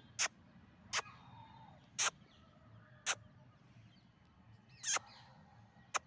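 A bird calling: six short, sharp calls roughly a second apart, with a slightly longer gap in the middle, over faint chirping of other birds.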